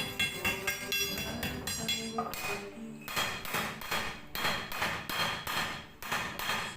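Repeated hammer strikes on the metal shell of an exhaust muffler being chiselled open, about three a second, with a short lull about halfway through.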